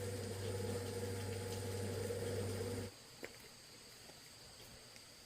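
A steady low mechanical-sounding hum that cuts off abruptly about three seconds in, leaving only faint steady high-pitched tones and a single click.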